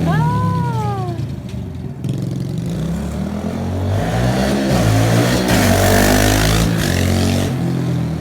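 2011 Kawasaki KLX110 pit bike's small four-stroke single-cylinder engine being ridden hard, its revs climbing and dropping several times as the throttle is worked, with a sharp fall in pitch in the first second.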